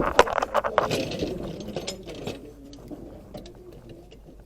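Light metallic clinks and rattles, busiest in the first two seconds, then dying down.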